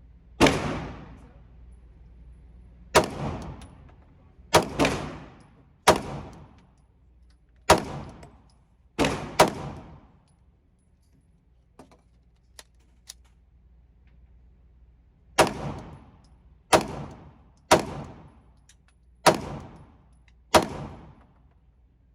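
Glock 19 9mm pistol firing about thirteen shots at a slow, uneven pace, each a sharp crack with an echoing tail. The shots come in two strings, with a pause of about five seconds in the middle that holds only a few faint pops.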